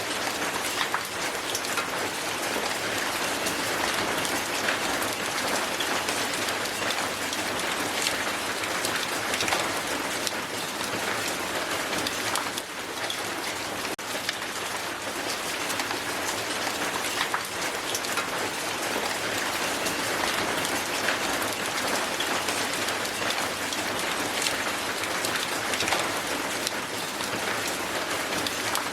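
Hail falling steadily on the ground: a dense, even patter of many small sharp ice impacts, without a break.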